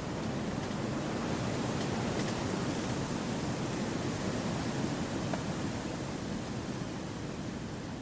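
Wind blowing through forest trees: a steady rushing that swells slightly over the first few seconds and then eases off.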